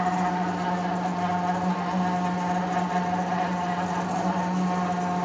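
Portable air conditioner running: a steady hum with a low drone and a couple of higher steady tones.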